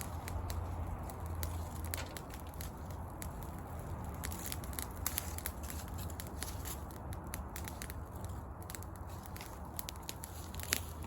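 Wood fire crackling: irregular sharp pops and snaps over a steady low rumble, with a louder pop near the end.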